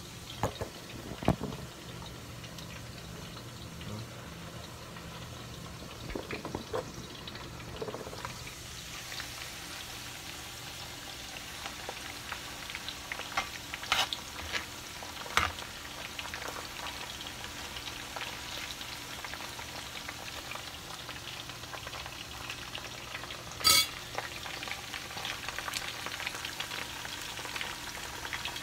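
Slices of green banana frying in hot oil in a cast-iron pan, sizzling steadily. A metal spoon stirring them knocks against the pan a few times, and the loudest, sharpest knock comes about three-quarters of the way through.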